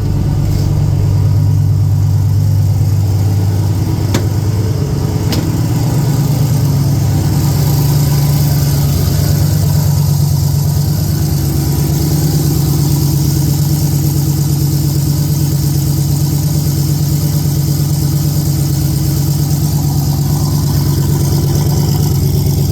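Turbocharged LS V8 of an OBS GMC pickup idling steadily, freshly started after its turbo build and warming up. There are a couple of faint clicks about four and five seconds in.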